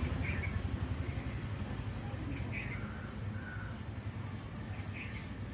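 A few short bird chirps, scattered and separate, over a steady low rumble.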